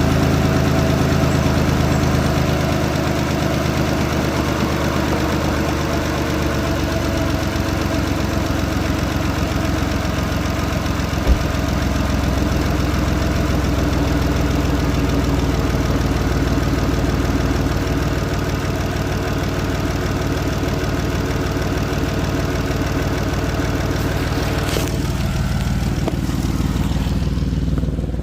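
Dodge Charger V6 engine idling steadily on its new spark plugs and ignition coil packs, with one short thump about eleven seconds in.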